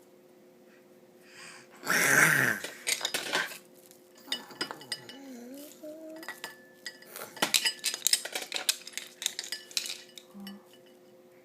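Irregular clinking and clattering, opening with a loud noisy burst about two seconds in, with a faint rising-and-falling voice sound near the middle.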